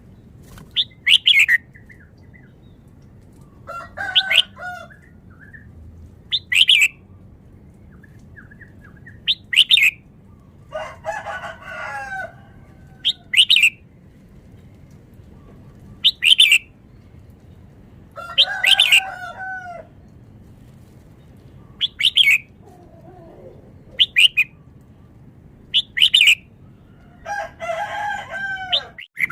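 Red-whiskered bulbul singing short, bright, quick phrases, one about every three seconds, ten or so in all. Between them come three longer, lower calls.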